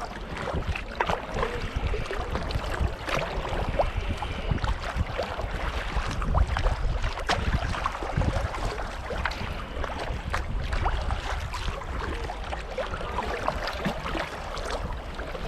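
Kayak paddles splashing into the water and water lapping against the hull, over a low rumble of wind on the microphone.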